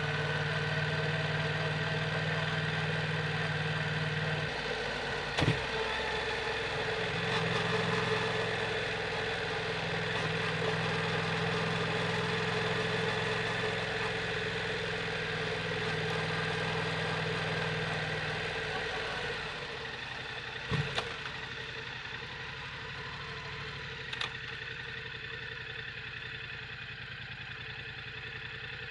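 Yamaha MT-07's parallel-twin engine running steadily at low revs through an Akrapovic full exhaust, its note changing a couple of times, with a few sharp clicks.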